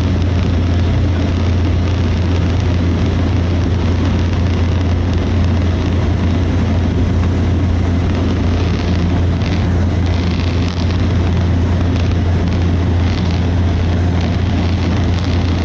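Steady drone of a Cessna 208B Caravan's single turboprop engine and propeller, heard inside the cabin in flight, with a strong constant low hum under a wide rushing noise.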